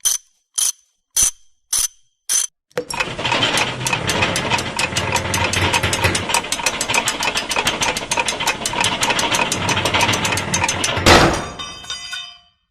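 Five sharp metallic clicks about half a second apart, then a fast run of ratcheting clicks, about seven or eight a second, lasting some eight seconds. It ends in one loud metallic hit that rings on briefly.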